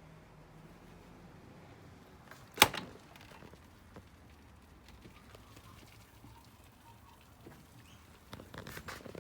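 A single sharp clack about two and a half seconds in, over a faint low hum, followed near the end by a short run of small clicks and rattles.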